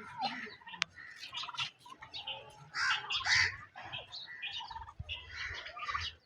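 Domestic turkeys calling: a run of short, overlapping calls and chirps, loudest about three seconds in.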